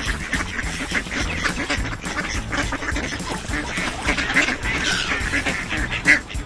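Ducks quacking, many quacks in quick succession.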